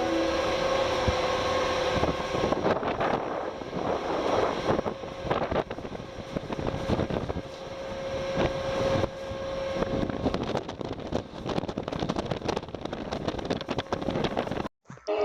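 Ferry running under way: a steady engine hum under rushing wind that buffets the microphone in irregular gusts. It cuts off suddenly near the end.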